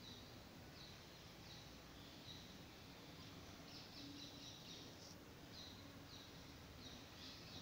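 Near silence with faint background room noise and faint high chirps from a bird, short down-sweeping calls recurring about every second.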